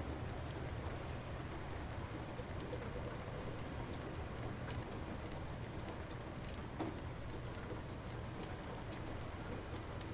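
Light rain falling steadily, with scattered drops pattering on surfaces.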